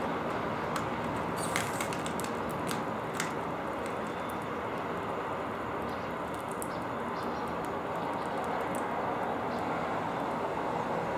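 Steady hum of city traffic, with a few brief high chirps and clicks from small birds at a balcony feeder, clustered about two seconds in and again past the middle.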